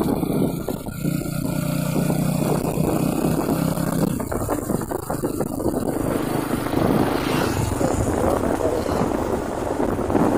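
Truck engine running with a steady drone and road noise; the sound changes abruptly about six seconds in.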